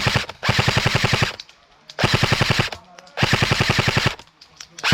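Airsoft electric rifle firing on full auto in short bursts, with four or so rapid rattling bursts of about a second each and brief pauses between them.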